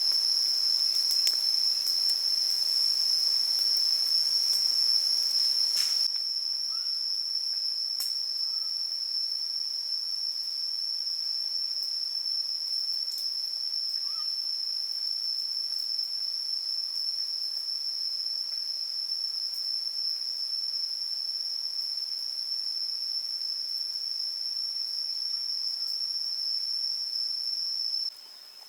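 Insects in the rainforest, crickets or cicadas, making a steady, high-pitched drone that does not change. The level steps down about six seconds in, and the drone fades out just before the end.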